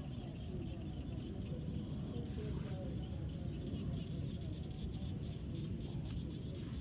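Outdoor ambience: a steady low rumble with a faint, even insect-like chirring above it.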